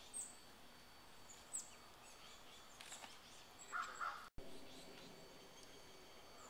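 Faint, scattered bird chirps, short and high, over a quiet outdoor background.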